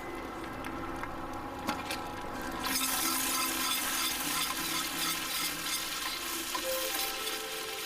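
Food frying in a hot pan: sizzling that starts suddenly about three seconds in, as the food goes into the fat, and keeps on steadily, after a few light clicks.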